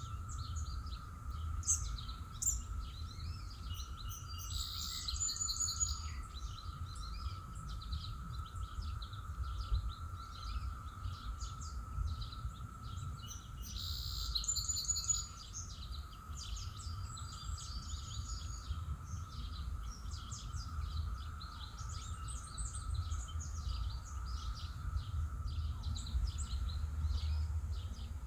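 Songbirds chirping and singing, with many short calls throughout, over a steady low outdoor rumble and a faint continuous high hum.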